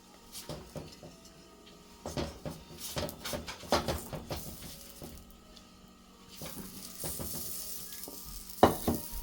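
Kitchen utensils knocking and scraping against a pan and dishes, with a few sharp clacks, and a steady hiss of a buttered roti sizzling on the hot griddle from about six and a half seconds in; one loud clack comes near the end.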